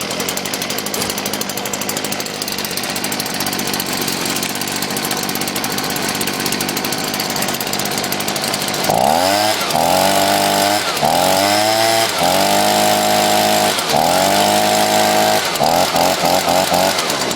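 Stihl BG55 handheld leaf blower's two-stroke engine running just after a cold start: a steady idle for about nine seconds, then revved up several times with the throttle, ending in a quick run of short blips.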